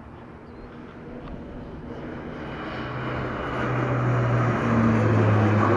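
Air Tractor crop-dusting plane flying in low: its engine and propeller grow steadily louder as it approaches, and the pitch drops as it passes close near the end.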